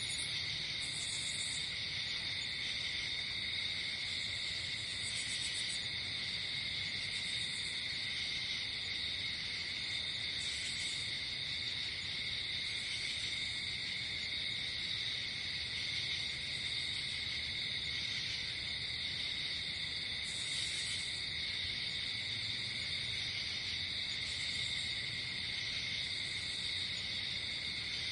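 Night insect chorus of crickets: a continuous shrill drone in two steady pitches, with short higher chirps every couple of seconds.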